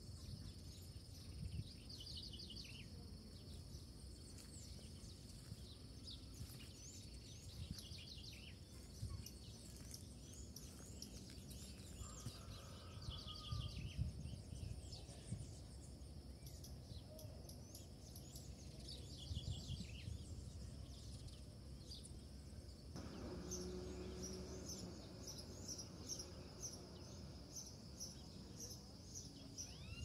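Wild birds calling faintly in short clusters of high chirps every few seconds. About three-quarters of the way through, this changes to a quicker run of high chirps, about three a second. Underneath are a steady faint high whine and a low rumble.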